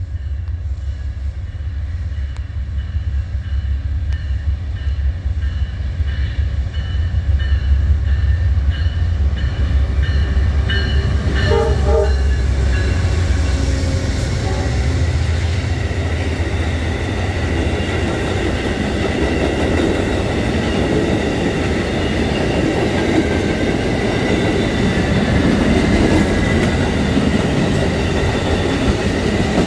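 Amtrak passenger train passing at track side. First the diesel locomotive's deep engine rumble builds as it approaches and goes by, with a bell ringing in even, repeated strikes. Then the passenger cars roll past with wheels clacking over the rail joints and a steady high wheel-on-rail sound.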